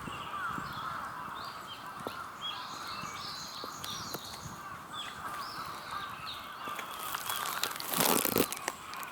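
Wild birds calling, with many short high chirps and notes throughout over steady background noise, and a louder harsh burst about eight seconds in.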